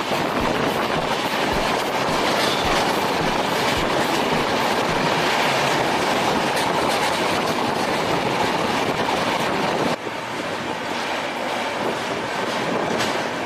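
Passenger train running at speed, a steady loud rumble of wheels on the rails. About ten seconds in the sound cuts abruptly to a quieter, steady rumble.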